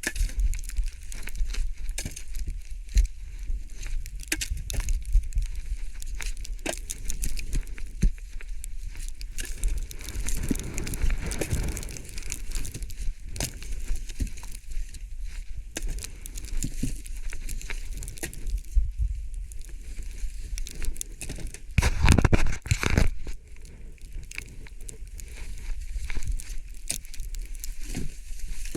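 Footsteps crunching in snow with irregular crackling and scraping, as a sleigh load of firewood is hauled over the snow, and wind rumbling on the microphone. There is a louder clatter of knocks about three-quarters of the way through.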